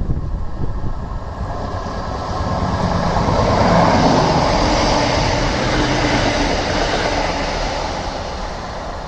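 Passenger train passing along the line. Its noise builds to a peak about four seconds in, then fades away.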